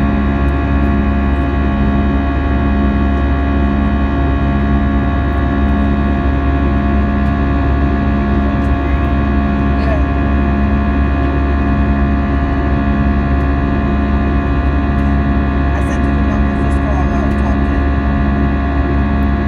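Airbus A320 cabin noise in flight: steady jet engine and airflow rumble with a buzz of many steady engine tones, and a low hum that pulses about once a second.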